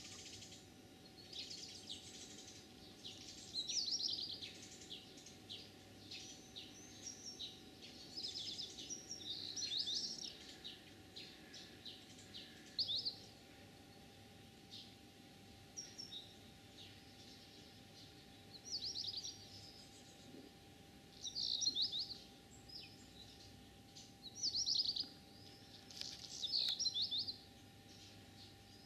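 Wild songbirds singing: short, quick trilled phrases, one every couple of seconds.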